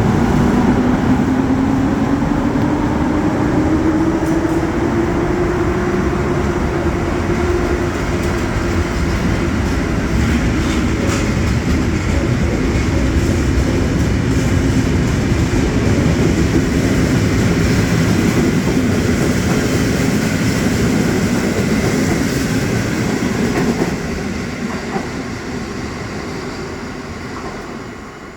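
A train running past close by, with a steady rumble of wheels on rail and a motor whine that rises in pitch over the first several seconds. The sound fades away over the last few seconds as the train moves off.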